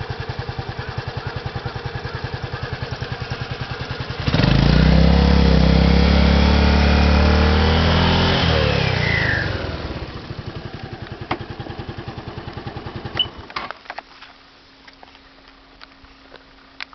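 Honda Fusion MF02 scooter's single-cylinder four-stroke engine idling with an even, pulsing beat. About four seconds in it is suddenly revved and held for several seconds, then falls back to idle. Near the end it shuts off, followed by a few sharp clicks and a faint steady hum.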